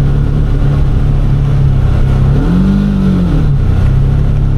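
Side-by-side UTV engine running steadily under way. It revs up briefly about two and a half seconds in and settles back.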